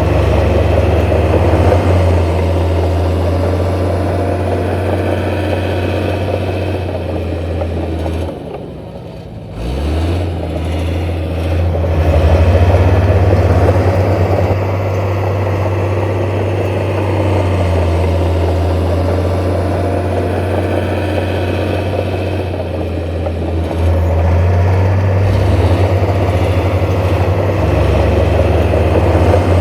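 Heavy diesel engine of earthmoving machinery running with a steady low drone. About eight seconds in it drops off briefly, then its pitch rises quickly as it picks up again.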